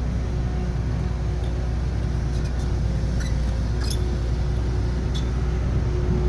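Diesel engine of heavy construction equipment running steadily at an even pitch, with a few faint clicks.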